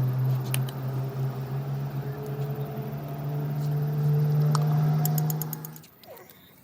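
A steady machine hum that runs at an even pitch, then dies away quickly about six seconds in, with a few light metallic clicks over it.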